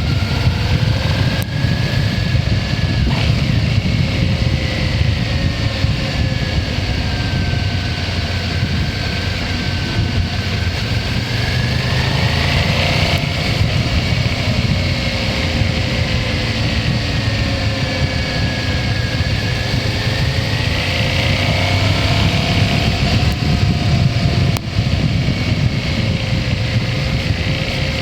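Motorcycle engine running on the move, its pitch rising and falling slowly as speed changes, over a heavy low rumble.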